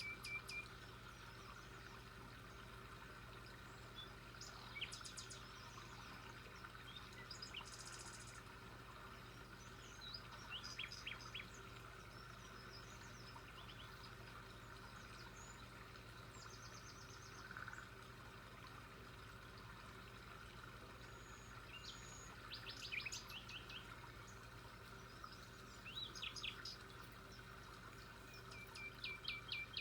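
Wild birds chirping and calling at intervals, with a short song of quick descending notes ending in a held whistle near the start and again at the end. Faint steady hum underneath.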